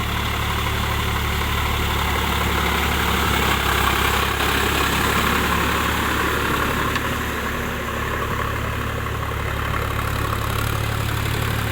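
Sonalika DI 47 RX tractor's diesel engine running at a steady speed, with an even low hum.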